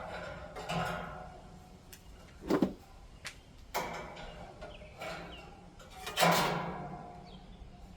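Sheet-metal knocks and scrapes from a vintage box fan's bent blades being worked by hand and catching on the fan's shroud. There are about four separate clanks with a short ring after each, the last the loudest.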